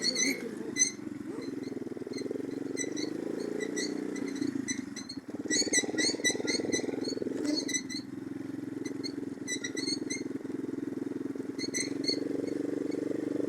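Orion-100 moped engine running under way on a rough forest track, a steady engine note with the throttle eased off briefly about four to five seconds in and again near eight seconds. Short high ticks and clicks sound irregularly over it.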